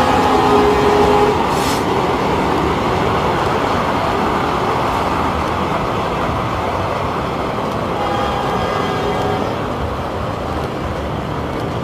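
Train running with a steady rumble and rush of noise. A horn note that started earlier cuts off about a second in, and a fainter horn sounds briefly about eight seconds in.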